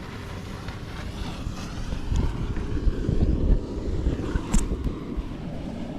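A vehicle running, heard as a low, uneven rumble, with a short sharp click about four and a half seconds in.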